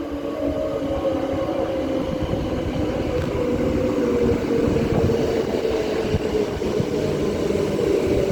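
A Transperth A-series two-car electric multiple unit pulling into the platform. Its motor whine falls slowly in pitch as the train slows, over the rumble of the wheels.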